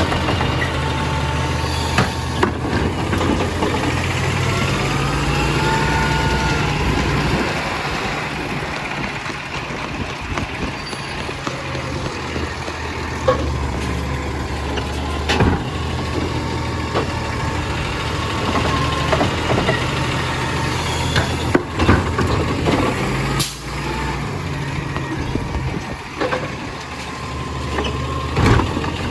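Garbage truck's engine running steadily, with a wavering whine a few seconds in and several sharp knocks and clanks scattered through.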